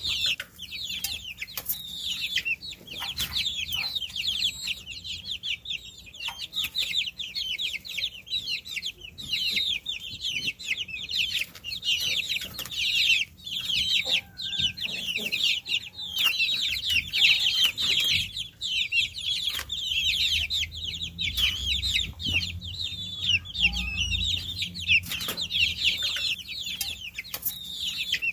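A brood of baby chicks peeping continuously, many high, short chirps overlapping with no break, with occasional light taps or clicks.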